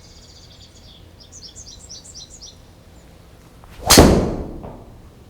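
A golf club striking a ball with one sharp, loud crack about four seconds in, ringing away over about a second. Before it, a string of short, high bird chirps.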